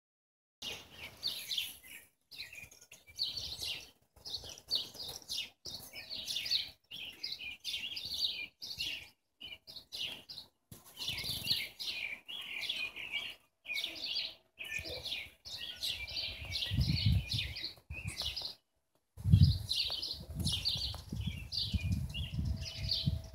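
Songbirds chirping and singing continuously, with the sound dropping out briefly every second or so. In the last third, low buffeting rumbles join them.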